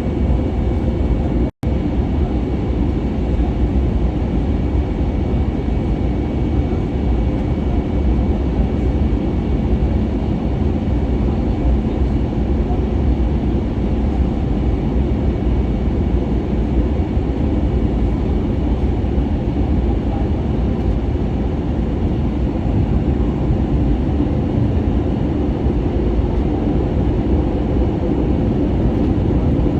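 Airbus A320neo cabin noise in flight: a steady, deep rumble of engines and airflow with a faint steady whine above it. It drops out for an instant about a second and a half in.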